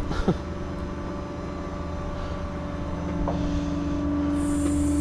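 Tow truck's engine running steadily under load, heard from inside the cab, a droning hum over a low road rumble that grows a little louder near the end as a high hiss comes in.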